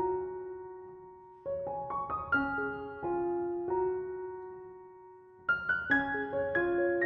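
Background piano music: gentle phrases of struck notes that ring out and fade, with new phrases starting about a second and a half in and again near the end.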